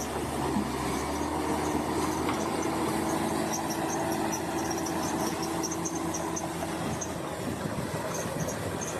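Crawler bulldozer's diesel engine running steadily, with a held tone in its note from early on to about two-thirds through. Quick metallic clicks, likely from the steel tracks, come in the middle and again near the end.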